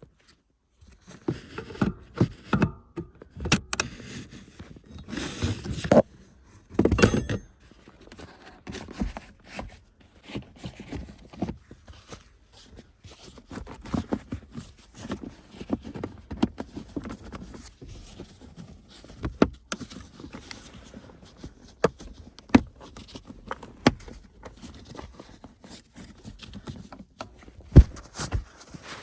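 Hand work on car parts with tools: scattered clicks, knocks, metallic rattles and scrapes at an irregular pace, with two short rasping bursts about five and seven seconds in.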